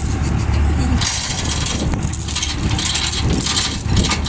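Irregular metallic clinking and jingling over a steady low rumble.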